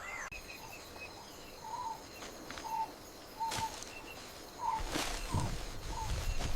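Outdoor nature ambience of small animals calling: short chirping calls repeat about once a second, with a few fainter, higher chirps and occasional soft clicks.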